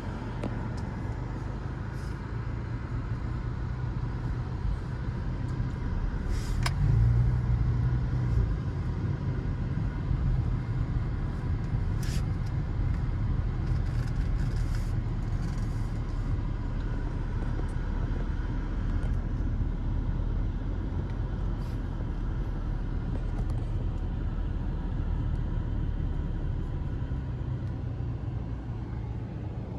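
Car engine and road rumble heard from inside the cabin while driving slowly, swelling a little about seven seconds in, with a couple of brief clicks.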